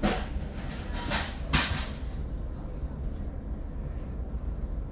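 Steady low hum of a train carriage interior, with three short rustling hisses in the first two seconds, then only the steady hum.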